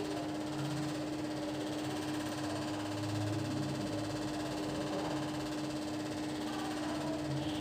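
A steady hum holding one constant tone over a background hiss, with no change in level.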